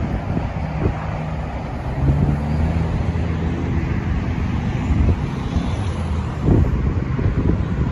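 Street traffic: a motor vehicle's engine hum rising about two seconds in and fading a few seconds later, with wind buffeting the microphone.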